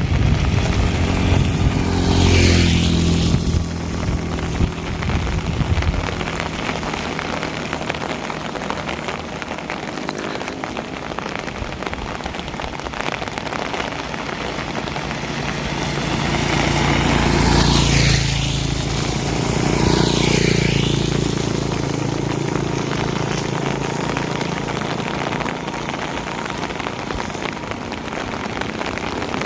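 Steady rain falling, with vehicles driving past on the wet road: one about two seconds in, then two more close together a little past halfway, each swelling and fading with tyre hiss and engine sound.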